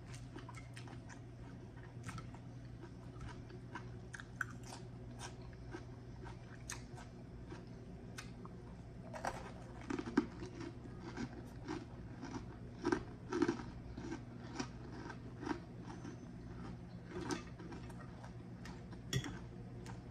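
Close-miked eating sounds: chewing and crunching a forkful of fried fish balls and salad, with small wet mouth clicks. The chewing gets louder and more regular about halfway through, at two or three chews a second, over a faint steady low hum.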